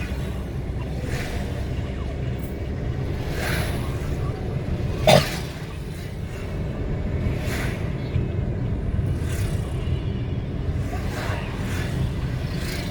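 Steady low road rumble of a vehicle travelling on a highway, with other vehicles whooshing past every second or two and one short, louder sound about five seconds in.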